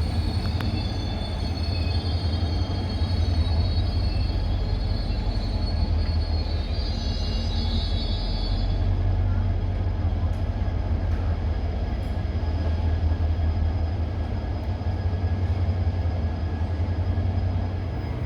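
A train running at a station platform: a steady low rumble and hum, with a faint high-pitched whine through the first half that fades out about halfway.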